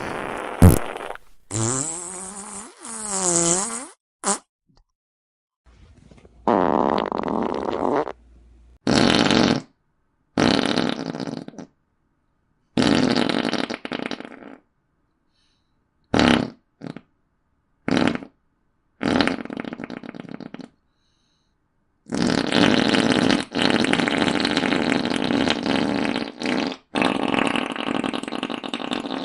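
A string of about a dozen fart sound effects, one after another with short silences between. Some are brief blips and others last a few seconds. Near the start comes a creaky one whose pitch wavers up and down.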